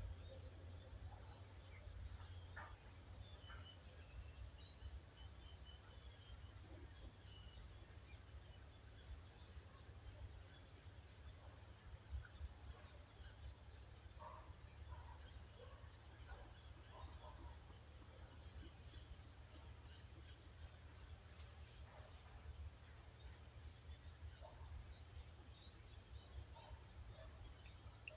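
Faint woodland birds calling, short scattered chirps and notes from several birds throughout, over a steady low rumble. A thin steady high-pitched tone joins in about halfway through.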